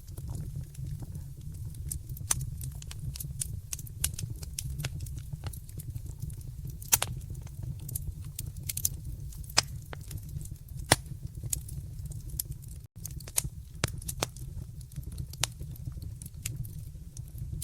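Wood fire crackling in a fireplace: irregular sharp pops and snaps, a few much louder than the rest, over a steady low rumble of the flames. The sound cuts out for a split second about thirteen seconds in.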